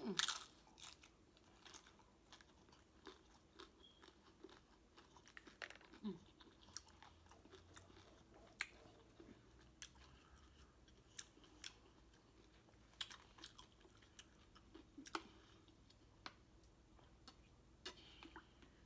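A person chewing a mouthful of food close to the microphone: soft, irregular mouth clicks and smacks, with a louder bite right at the start.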